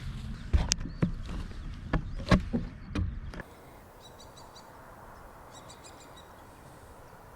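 Footsteps crunching on a trail, several irregular heavy steps, then a sudden cut to quiet outdoor ambience. Faint bird chirps come twice in quick repeated trills.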